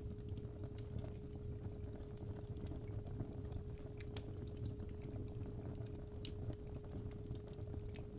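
Fireplace fire crackling, with scattered sharp pops over a low rumble, under a steady 417 Hz sine tone.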